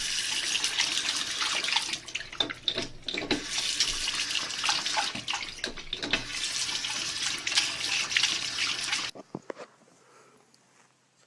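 Running water splashing, like a tap running into a sink, with small irregular splashes through it; it cuts off suddenly about nine seconds in, leaving faint quiet sounds.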